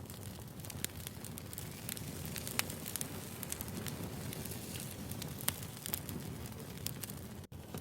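Firewood burning: a steady crackle of a wood fire with scattered sharp pops over a low rumble. The sound cuts out for an instant near the end.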